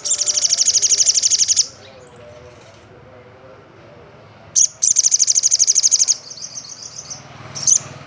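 Olive-backed sunbird singing: two loud, high-pitched rapid trills of about ten notes a second, the second starting about four and a half seconds in. Between and after them come a softer trill and a few short sharp calls.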